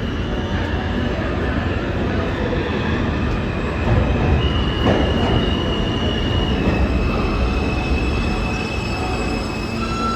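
New York City subway train running on the rails with a steady heavy rumble. A high, steady wheel squeal comes in about halfway through and shifts slightly in pitch.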